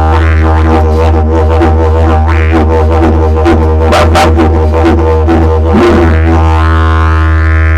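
Didgeridoo played live: a continuous low drone with shifting overtones and rhythmic sharp accents. Near the end, an upper overtone rises in pitch.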